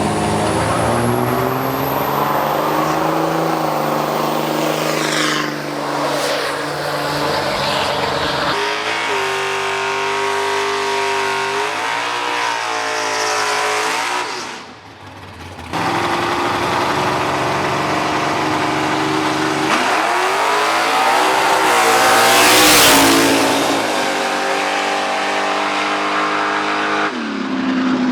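Drag-racing vehicles, mostly diesel trucks, running down the strip: engines revving up and changing pitch through the gears, in several runs that follow one after another, with one loud pass about 22 seconds in.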